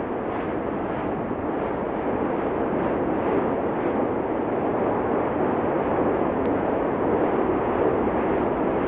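Cumbre Vieja volcano erupting: a continuous, dense rumbling noise from the vent, steady with no separate blasts standing out.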